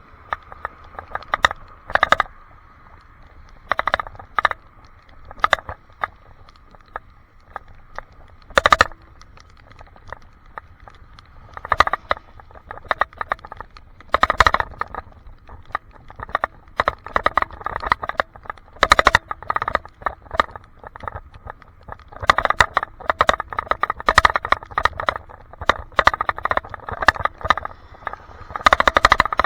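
Irregular rattling clicks heard through an action camera's waterproof case on a handlebar mount, scattered at first and coming in dense, busy runs from about two-thirds of the way in. The cause of the rattle is unknown.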